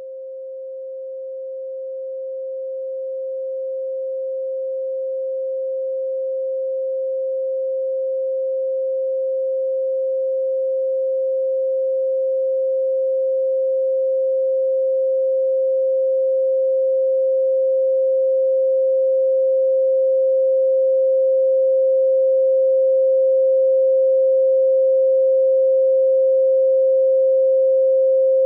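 A pure 528 Hz sine tone, the 'solfeggio' healing frequency, held at one steady pitch. It swells in over the first few seconds and keeps growing slowly louder.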